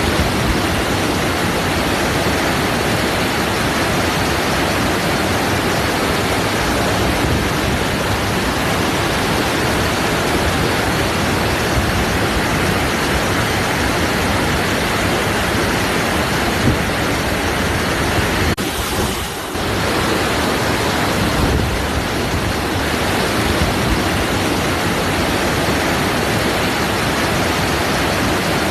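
Waterfall: water falling and splashing in a steady, dense rush. The sound briefly dips about two-thirds of the way through.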